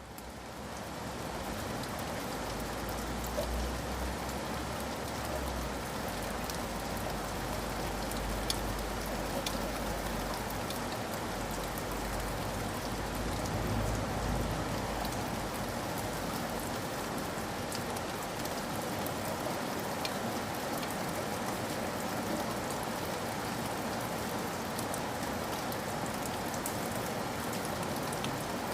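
Steady rain falling, an even hiss with scattered drop ticks, fading up from silence at the start. A low rumble sits underneath during the first half.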